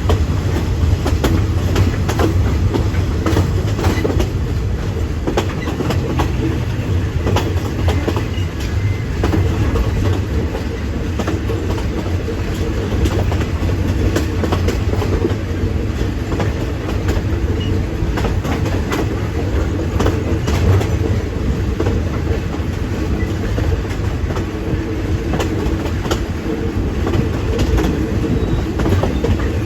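Passenger train running at speed, heard from aboard a carriage: a steady low rumble with frequent irregular clicks and clatter of the wheels on the track.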